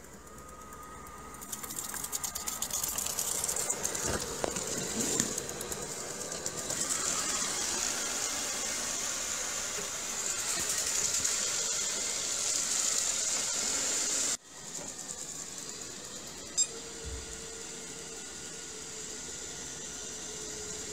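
Cordless wet-dry floor vacuum running with a steady motor whine and airy hiss. About two-thirds of the way through it cuts sharply and carries on quieter with a steady hum.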